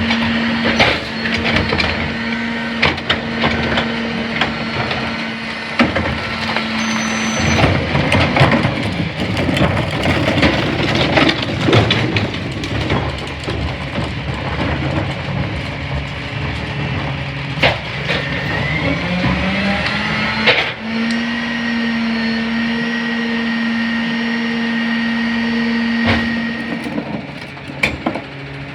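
CNG Autocar Xpeditor rear-loader garbage truck with a McNeilus body at work: the engine and hydraulics run with a steady whine, broken about a third of the way in by a stretch of heavy clatter and knocks. About two-thirds in, the pitch rises and then settles into a steady whine again.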